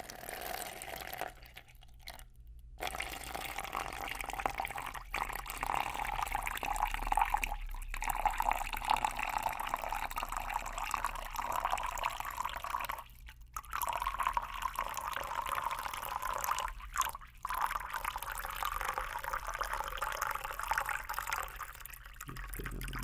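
Water being poured from a bottle in a long, splashy stream, picked up close on binaural mannequin-head microphones. It stops briefly about a second and a half in, and again twice in the second half.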